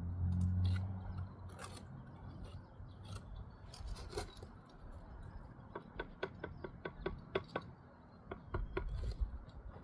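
Mason's trowel scraping mortar and tapping on brick, with a quick run of sharp taps in the second half. A low rumble sounds in the first second.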